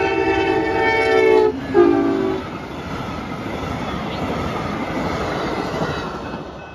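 Amtrak passenger train passing a grade crossing. Its horn sounds a long blast and then a short one that drops in pitch as the locomotive goes by. The rushing rumble of the passenger cars follows and fades near the end, with the crossing's warning bell ringing steadily underneath.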